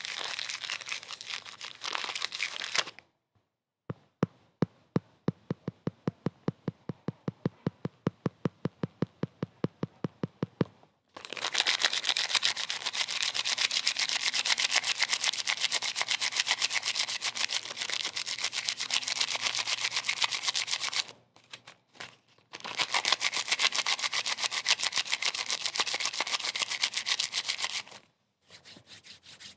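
Close, scratchy rubbing noise in long stretches, with a run of sharp, evenly spaced clicks, about five a second for some seven seconds, after a short break near the start.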